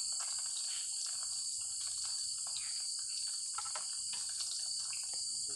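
Steady, high-pitched chorus of night insects such as crickets, with a few faint scattered clicks beneath it.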